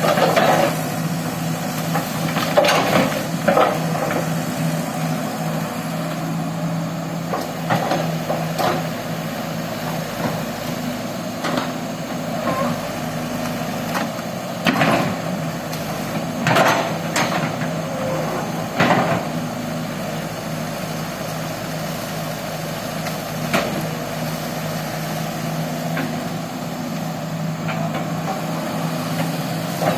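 Excavator's diesel engine running steadily, with irregular knocks and clanks from its work scattered through, a cluster of them about halfway through.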